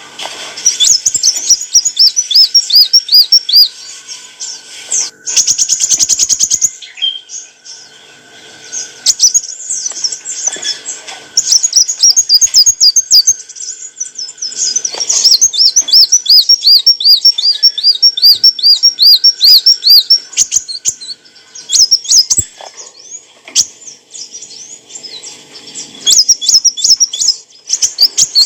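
Kolibri wulung sunbird singing: rapid, high chattering trills of quick looping notes in repeated bursts with short pauses between, including a brief buzzy rattle near the start.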